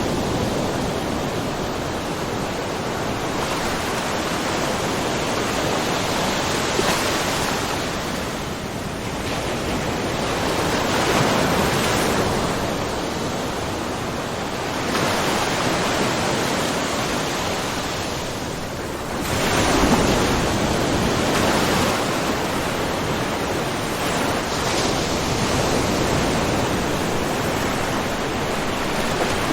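Small ocean waves splashing and washing in a rocky cove, a continuous rush that swells with each wave every few seconds, the biggest surge about two-thirds of the way in.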